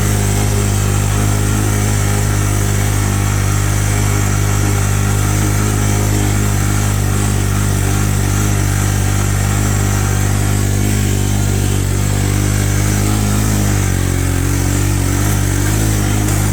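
Honda Big Red's engine running steadily under load while towing a heavy tree branch on a chain, its pitch shifting slightly near the end.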